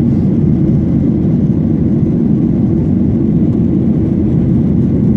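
Boeing 737-800's CFM56-7B engines and airflow heard from inside the passenger cabin as a loud, steady, low roar.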